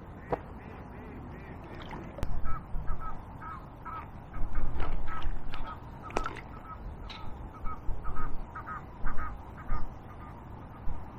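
Birds calling over and over in short repeated calls, with loud low rumbles now and then, the longest about four to five seconds in.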